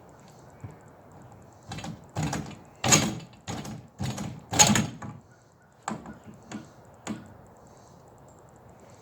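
A homemade tarp awning and its poles being taken down by hand: a run of knocks, scrapes and rustles, loudest about three seconds and four and a half seconds in.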